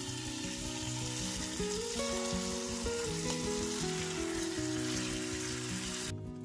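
Grated potato, carrot and chicken mixture sizzling in hot oil in a frying pan as it is poured in and spread out. The sizzle cuts off suddenly near the end.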